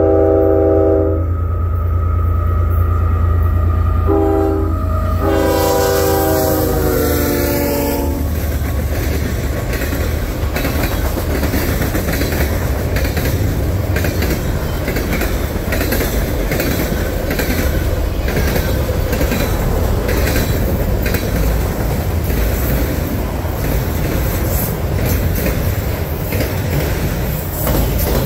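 A GE ES44AC freight locomotive's air horn: one blast ends about a second in and a second long blast sounds from about four to eight seconds in, dropping in pitch near its end as the locomotive passes, over the low rumble of its diesel engine. Then the freight cars roll by with a steady rush of wheel noise and repeated clicking over the rail joints.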